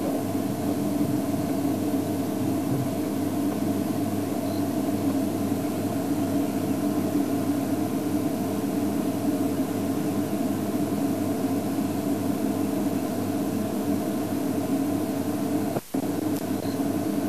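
Steady low hum of an idling game-drive vehicle's engine, cutting out for a split second near the end.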